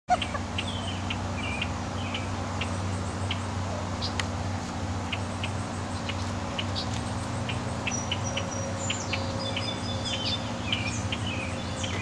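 A bird giving repeated short, sharp chirps, irregularly about a second apart, with some higher thin notes in the second half: alarm calls of a parent bird defending its nest. A steady low hum runs underneath.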